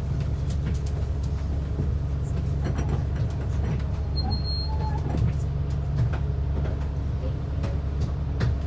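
Inside a moving transit bus: the engine and drivetrain give a steady low drone, with small rattles and clicks from the cabin. A short high beep sounds about four seconds in.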